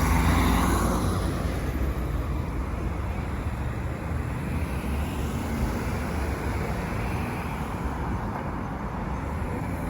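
City street traffic noise: a vehicle passes and fades over the first couple of seconds, then a steady rumble and hiss of road traffic.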